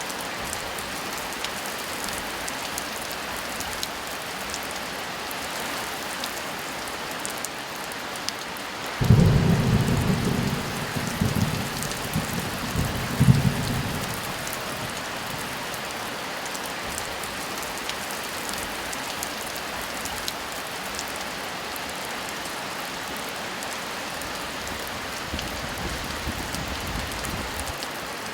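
Heavy rain falling steadily. About a third of the way in, a thunderclap breaks in with a loud low rumble that swells three times over about five seconds, then dies back under the rain.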